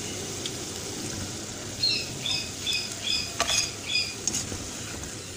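French fries sizzling in hot oil in a wok. From about two seconds in, a run of short high chirps repeats two to three times a second over the frying, with one sharp tap midway.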